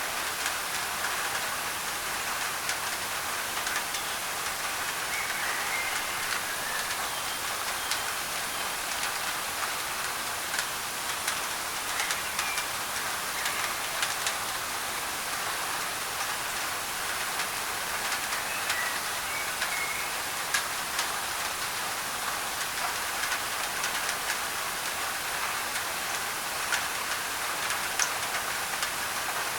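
Steady heavy rain on a thin tin roof, a dense hiss with many sharp drop ticks on the metal. A few faint bird chirps come through now and then.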